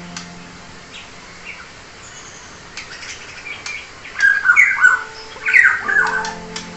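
Black-naped oriole (kepodang emas) calling: a few scattered short chirps, then a run of loud, harsh, sliding calls starting about four seconds in.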